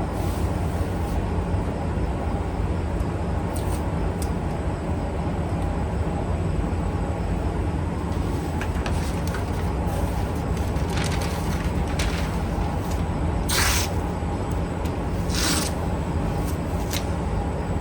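A steady machine hum runs throughout, with several short hissing bursts; the two loudest come near the end.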